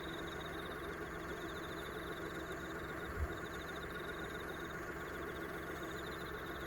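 Autumn insects chirping from grassland beside a rice paddy: high, rapid pulsed trills in bursts of a second or two with short breaks, over a steady low hum. A single low thump about three seconds in.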